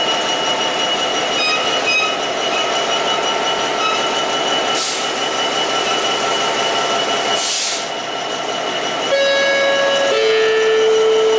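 Train running through a station with a steady high-pitched wheel squeal and two short bursts of hiss, then a two-tone horn near the end: a higher note followed by a longer, lower one.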